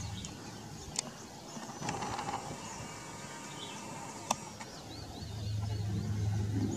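Small birds chirping, thin and high, with a quick run of chirps near the end. Under them is a steady low hum that fades soon after the start and returns about five seconds in. Two sharp clicks come about a second in and just past four seconds.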